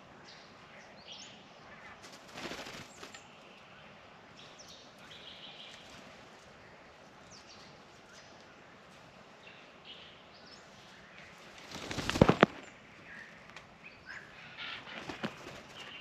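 Friarbirds at a birdbath: scattered short bird calls over a steady outdoor hiss, with a brief flurry of wings about two and a half seconds in and a much louder flurry about twelve seconds in.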